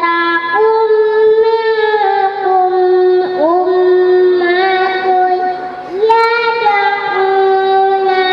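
A young girl's voice chanting in long, held melodic phrases with ornamented turns, in the style of tuneful Quran recitation; a short breath breaks the phrase about six seconds in.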